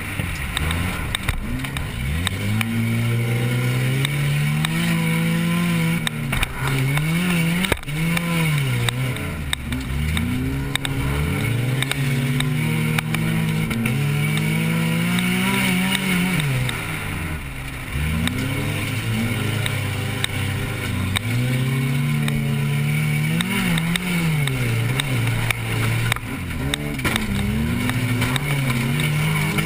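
Compact race car's engine revving hard, its pitch climbing and dropping again and again as the throttle is worked on and off, with a couple of sharp knocks.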